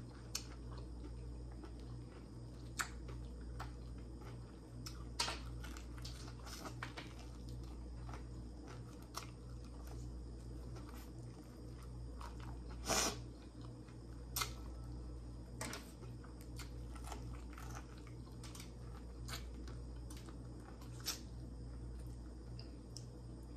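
A person chewing and biting into crispy fried chicken close to the microphone, with scattered small crunches and mouth clicks and one louder crunch about halfway through.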